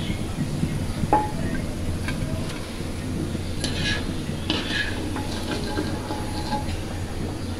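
Piyaju fritters sizzling in hot oil in a wok while a wire spider skimmer scrapes and clinks against the pan to lift them out, with one sharp metallic clink about a second in. A steady low hum runs underneath.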